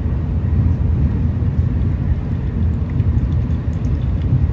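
Steady low rumble of a Shinkansen bullet train running, heard inside the passenger cabin.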